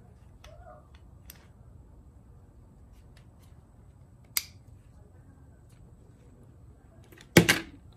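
Scattered light clicks and taps of small parts and tools being handled, with a sharper click about four seconds in and a louder quick double click near the end.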